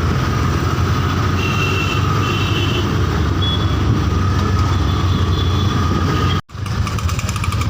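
Vehicle running steadily with a low rumble of engine and road noise, with a brief break about six and a half seconds in.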